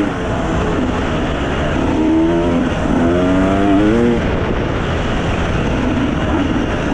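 Enduro dirt bike engine running under throttle, its pitch rising twice, about two and three seconds in, over steady wind and riding noise.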